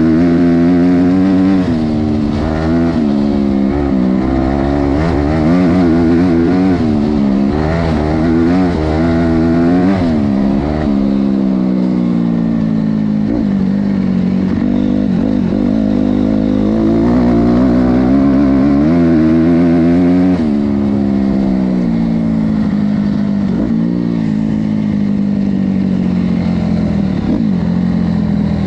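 Honda CRF250R dirt bike's four-stroke single-cylinder engine being ridden hard, its revs rising and falling over and over. The swings come quick and frequent through the first ten seconds or so, then the revs hold lower and steadier with occasional short rises.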